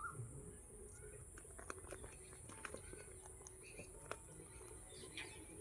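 Faint scattered clicks and scratches from a pet Indian ringneck parakeet, with a brief soft chirp about five seconds in.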